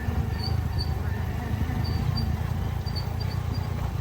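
Small Hero motorcycle running along a rough off-road track, a steady low rumble. A few short high squeaks or chirps come over it, twice in the first second, twice around two seconds in, and a cluster near the end.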